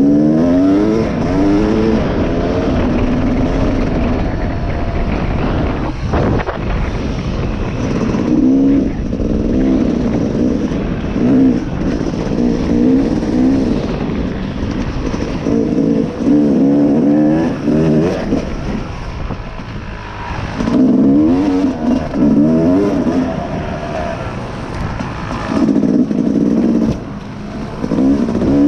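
Dirt bike engine being ridden, its pitch rising and falling over and over as the throttle is opened and rolled off, with the hardest surges coming every few seconds and calmer stretches between.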